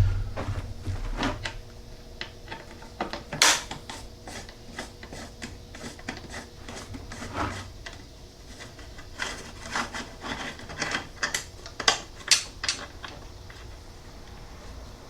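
Irregular clicks, taps and light knocks of hands handling parts on a motorcycle, with one sharper knock about three and a half seconds in and a quick run of clicks later on.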